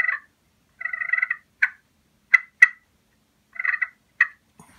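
Slate turkey call worked with a striker, giving a cluck and purr: about four short, sharp clucks mixed with three short rolling purrs. It imitates a wild turkey's contentment call, the sound of a calm bird feeding that means everything's okay.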